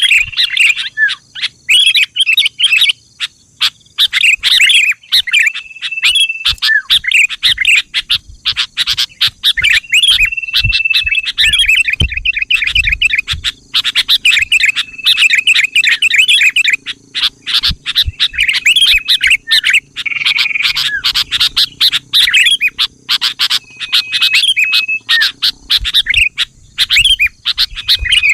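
Sooty-headed bulbuls (kutilang) singing and chirping non-stop: quick bubbly phrases of short notes with brief held whistles in between, played as a lure call to draw other bulbuls into answering.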